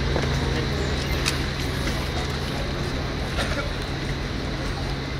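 A standing diesel passenger train idling: a steady low drone with a thin high whine above it, with faint voices of people on the platform.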